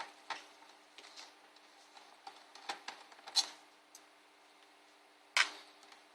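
Small screwdriver working the screws under a laptop's keyboard: scattered light clicks and taps of metal on screws and plastic, with two sharper taps about three and five and a half seconds in, over a faint steady hum.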